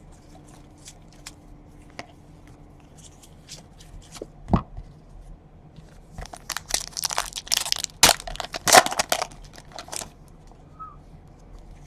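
Light clicks of trading cards being handled, then a single thump. A plastic card-pack wrapper is then torn open and crinkled for about three seconds.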